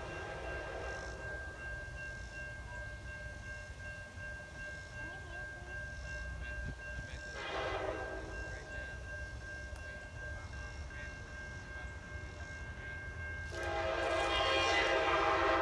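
Amtrak diesel locomotive's multi-chime air horn sounding in three blasts: one ending about a second in, a short one about seven and a half seconds in, and a longer, louder one starting near fourteen seconds. A steady low rumble runs underneath.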